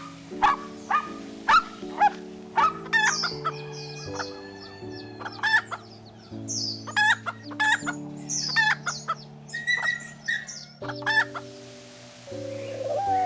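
Chickens clucking with a rooster crowing, over soft background music. A dog's barks carry over into the first couple of seconds.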